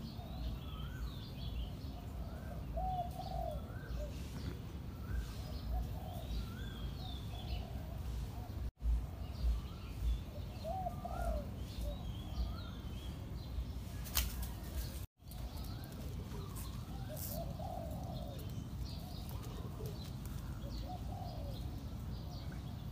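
Birds calling over a steady low rumble: short coo-like calls repeat about once a second with higher chirps among them. A sharp click sounds about fourteen seconds in, and the sound drops out briefly twice.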